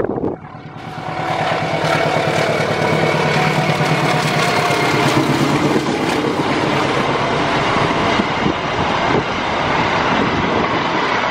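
Passenger train passing: a diesel locomotive's engine running under power with the rumble of the coaches' wheels on the rails. The sound builds over the first second or so, then stays loud and steady.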